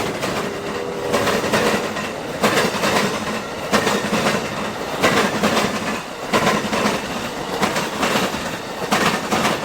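A train passing close by: a steady rumble with the wheels clacking over the rail joints in a repeating rhythm.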